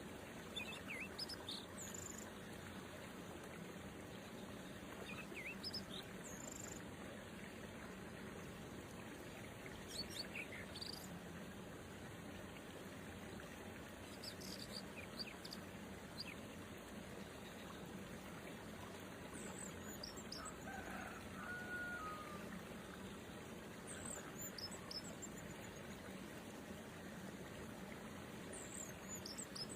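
Short, high bird chirps every few seconds over a steady background hiss, with a brief lower whistled note about two-thirds of the way through.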